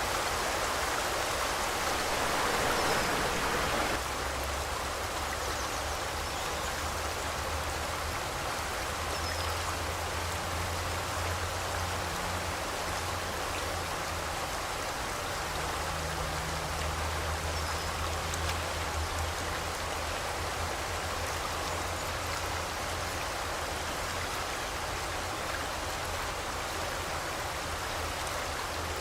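River water flowing over rocks: a constant rushing wash, slightly louder for the first four seconds. A few faint bird chirps come through it.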